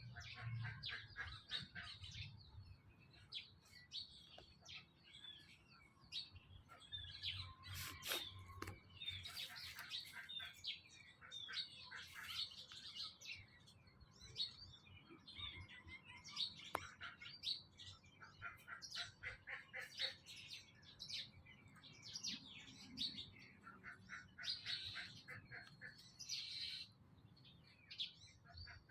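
Many short, high-pitched chirping and squeaking calls, overlapping in quick succession throughout.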